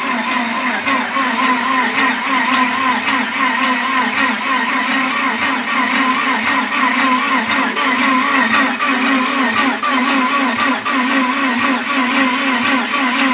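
Starter motor cranking the VW Passat B5's 1.8 engine without it catching: a steady whine that wavers in a regular rhythm as the engine turns over. The battery is weak and is not turning it fast enough to start.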